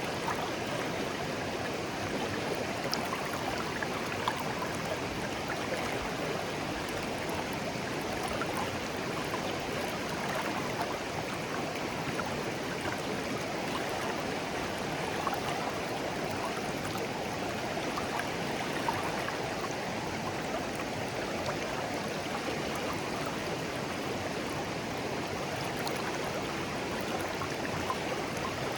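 Shallow clear stream flowing gently over stones, a steady babbling rush with small splashes and trickles throughout.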